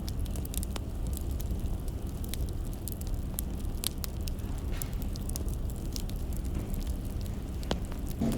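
Wood fire crackling: irregular sharp pops and snaps over a low steady rumble, with one louder knock near the end.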